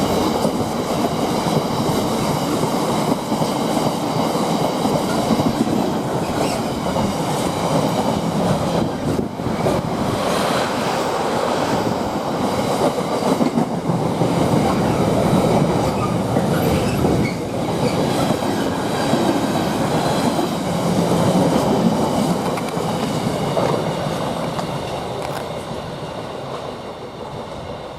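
Freightliner freight train headed by a Class 66 diesel locomotive passing along the line, a long, steady run of freight wagons going by on the rails. It gradually fades over the last few seconds as the end of the train draws away.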